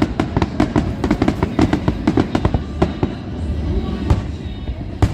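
A dense barrage of aerial firework bangs, several a second, thinning out about three seconds in, with one loud bang near the end.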